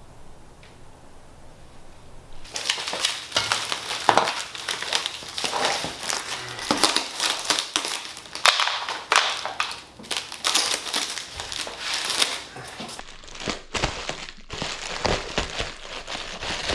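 Packing material crinkling and crumpling as it is handled and pulled off parts being unboxed, starting about two and a half seconds in and going on as dense, irregular crackling.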